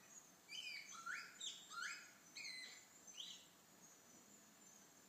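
Vasa parrot calling: a series of about six short calls, each sliding upward in pitch, over about three seconds, then stopping.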